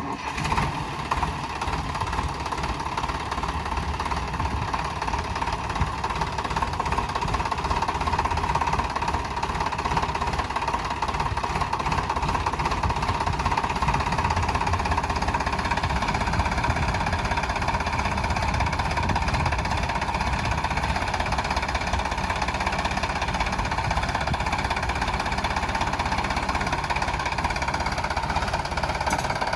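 Sonalika DI 745 tractor's diesel engine running steadily and loudly with a constant low rumble and a knocking clatter.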